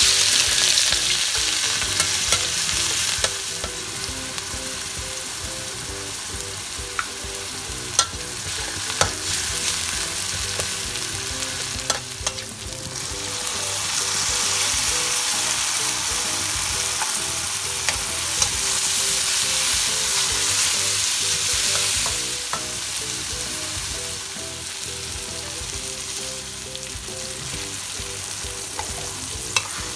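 Food sizzling in hot oil in a wok: a sliced onion mixture hits the oil and sizzles at once. About halfway through, sliced bitter gourd goes in and the frying gets louder, with a metal spatula now and then clicking and scraping against the wok.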